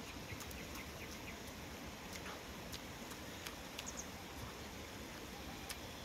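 A person chewing and lip-smacking while eating, scattered small wet clicks over a faint steady outdoor hiss.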